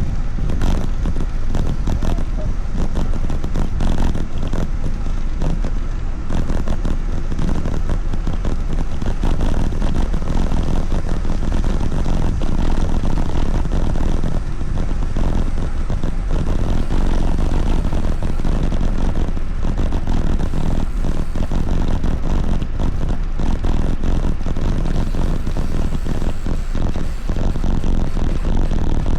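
Steady loud rush of wind on the microphone during a ride, with many small knocks and rattles throughout.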